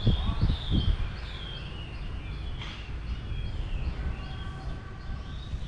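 Small birds singing, a steady run of short, high, downward-sliding chirps at about two or three a second, over a low background rumble. About four seconds in, a faint steady tone joins for a second or so.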